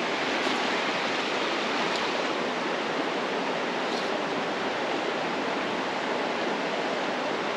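Creek water rushing steadily over a shallow stream bed, a constant even rush; the creek is running high.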